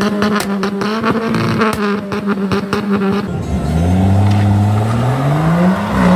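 A steady low drone with rapid pulsing, then a diesel Land Rover engine revving hard: its pitch climbs over about two seconds, dips, and climbs again near the end, as it blows out clouds of diesel smoke.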